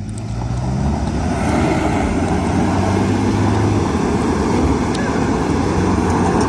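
Two 4x4 engines revving hard under load as they pull against each other on a tow strap, with tyres spinning on loose gravel. The revs climb over the first second, then hold high and steady.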